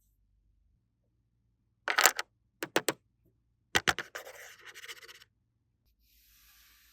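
Toy handling noise: a few sharp clicks about two to four seconds in, then about a second of scratching.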